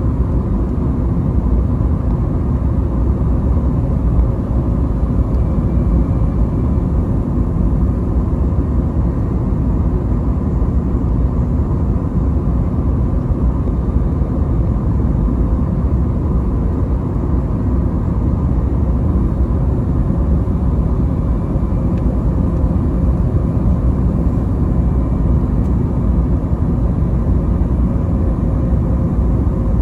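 Steady engine and airflow rumble inside the cabin of an Airbus A321neo airliner during its landing approach, with a faint steady hum over it.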